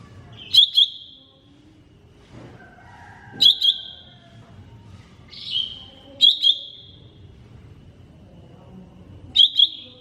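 Cucak ijo mini (green leafbird) calling: a loud, sharp, high double note repeated four times about three seconds apart, with a softer single note between the second and third. Fainter chirps and a low background rumble lie underneath.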